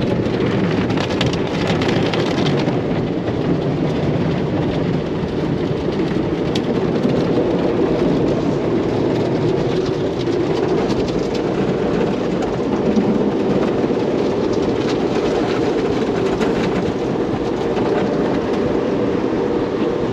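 Touchless automatic car wash running: high-pressure water and soap spraying and drumming steadily on the car body, heard from inside the cabin.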